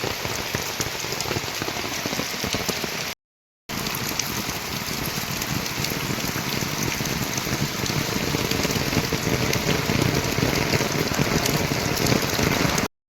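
Heavy rain falling, a steady hiss of many drops that grows slightly louder in the second half. It cuts to silence for about half a second around three seconds in and again just before the end.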